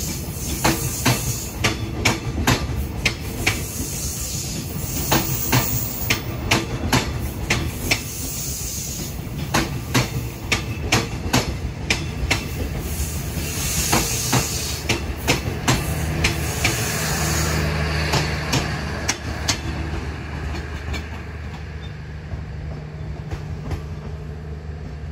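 Passenger train's coaches rolling out of the station, wheels clicking over the rail joints in quick pairs over a low rumble. Near the end the clicks thin out, leaving a low steady hum.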